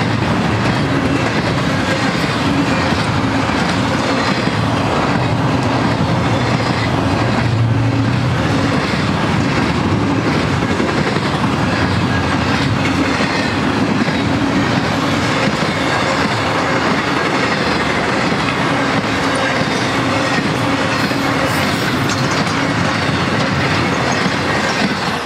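Double-stack intermodal freight train's well cars and trailer cars rolling past, a loud, steady rumble of steel wheels on rail that eases slightly near the end.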